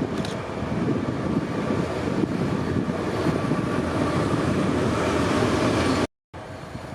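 ST44 (M62-type) diesel locomotive running light, its two-stroke V12 diesel rumbling and growing louder as it comes close. About six seconds in the sound cuts off abruptly and a quieter rumble follows.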